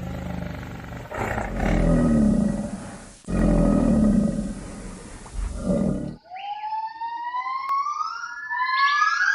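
A large animal roaring three times, deep and loud. Then an abrupt change to several high whistling calls that glide upward and overlap.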